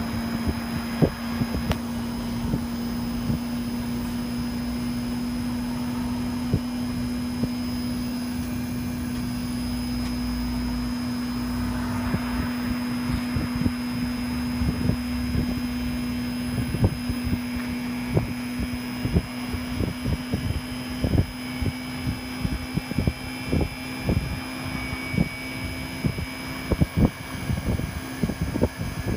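LG Multi V Mini outdoor air-conditioning unit running with a steady mechanical hum, which edges slightly up in pitch about halfway through. Irregular low knocks and crackles sound over it and grow more frequent in the second half.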